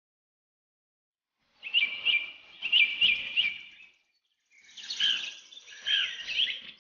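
Birds chirping in quick, repeated high calls, in two bursts separated by a short gap, each ending abruptly.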